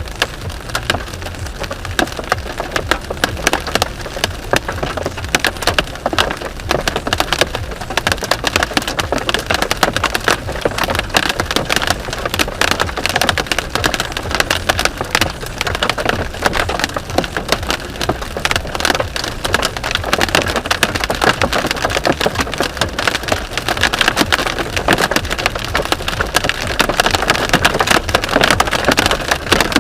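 Hailstones pelting the car's roof and windows in a dense, rapid, irregular clatter, heard from inside the cabin over the low rumble of the car driving.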